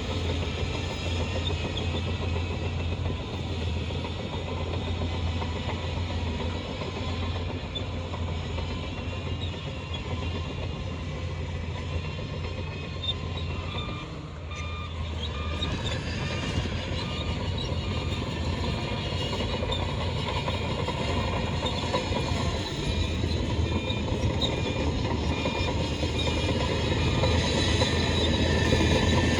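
Shantui bulldozer's diesel engine running steadily, with its steel tracks clattering; it grows a little louder near the end.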